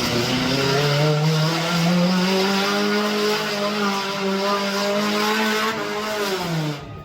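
Monster truck engine held at high revs for several seconds, the pitch rising at the start and then falling off as the throttle closes near the end.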